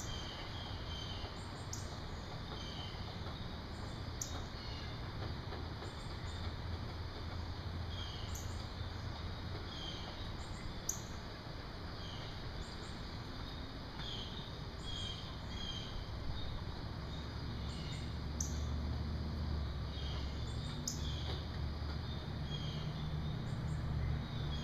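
Birds chirping and calling in short, repeated notes over steady outdoor background noise. A low rumble swells in about the last third.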